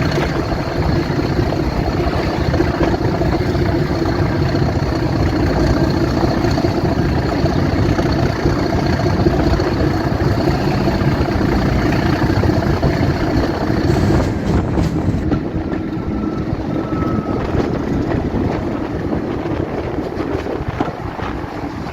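Heritage diesel locomotive engine running steadily, with a high steady whine over it that cuts out about fourteen seconds in.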